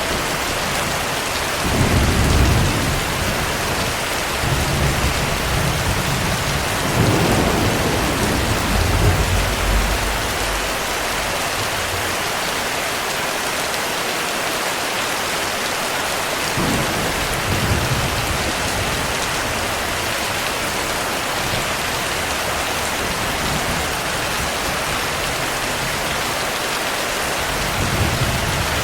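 Steady heavy rain with low rolls of distant thunder. The strongest roll comes about two seconds in, and a longer one from about seven to ten seconds in. Softer ones follow later.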